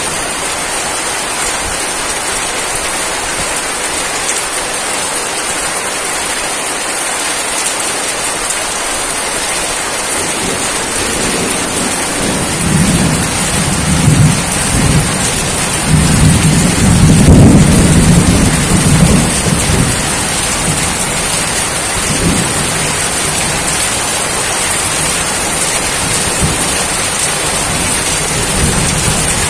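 Steady heavy rain hissing down, with a roll of thunder rumbling up about a third of the way in, loudest near the middle and dying away a few seconds later.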